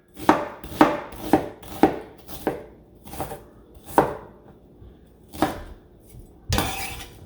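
Kitchen knife chopping an onion: sharp separate strikes, about two a second at first, then slower and further apart. Near the end comes a short scraping rush.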